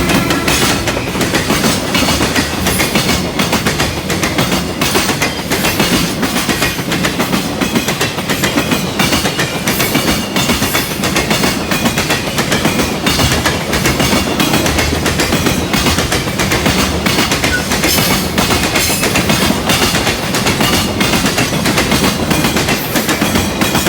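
Freight train passing close by, its wagons' wheels making a dense, steady clatter over the rail joints.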